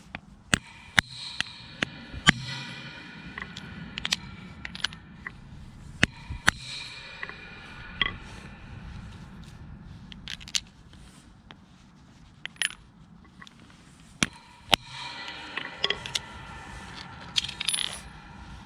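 Metal tools and parts clinking and tapping: a scattered series of sharp metallic clicks and knocks, several of them ringing briefly, with some scraping in between.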